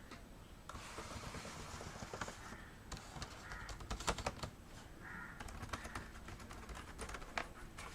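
Keys on a newly fitted ASUS X553M laptop keyboard being pressed one after another, faint irregular clicks, as each key is typed to test the replacement keyboard.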